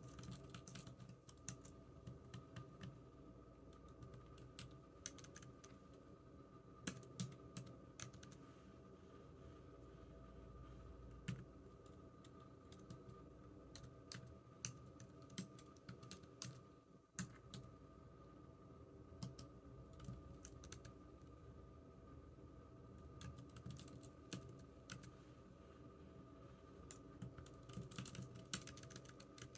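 Typing on a computer keyboard: quiet, irregular keystroke clicks in runs and pauses, with a faint steady hum underneath.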